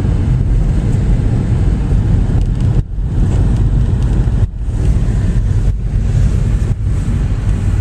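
Steady car cabin noise while driving: low engine and tyre rumble with a hiss of wind, dipping briefly a few times.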